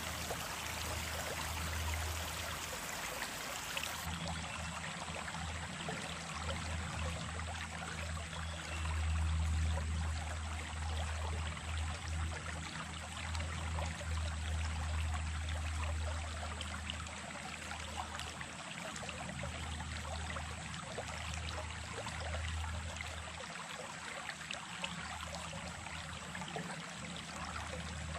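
Small stream running steadily, an even rushing and trickling of water, with a deep rumble underneath that swells and fades.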